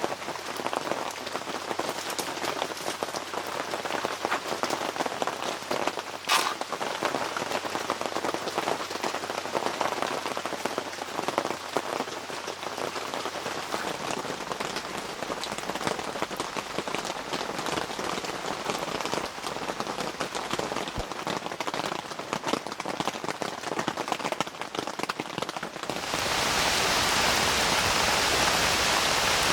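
Rain pattering steadily on a surface, a dense hiss of many small drops. Near the end it cuts abruptly to a louder, even rushing of water.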